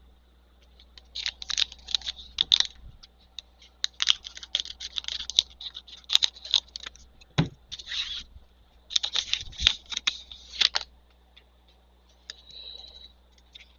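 Trading cards and pack wrappers being handled: quick runs of scratchy slides and flicks as cards are pushed through a stack, with a couple of soft thumps.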